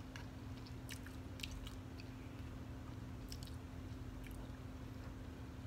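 A person chewing a mouthful of food, with scattered soft clicks over a steady low hum.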